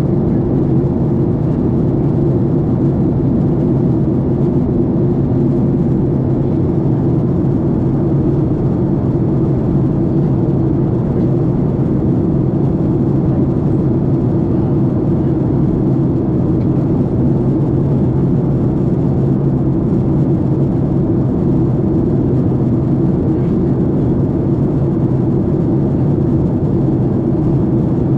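Steady cabin noise of a Boeing 767 airliner in flight: a constant low rumble and drone of engines and airflow, unchanging throughout.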